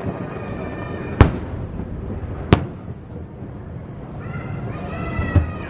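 Fireworks shells bursting: two sharp bangs about a second and a quarter apart, then a smaller pop near the end, over a steady noisy background.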